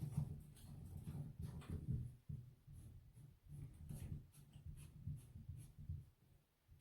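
Plastic shower-head parts being handled and screwed together: irregular scraping and rubbing with small clicks.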